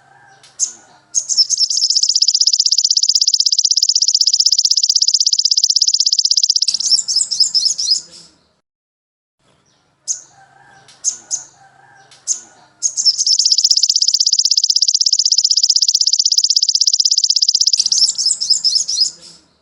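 A songbird's song played as a training recording: a few short high chirps, then a long, very rapid high trill lasting about five seconds, then a brief chattering phrase. After a short pause the same sequence repeats, with faint lower background sounds under the chirps.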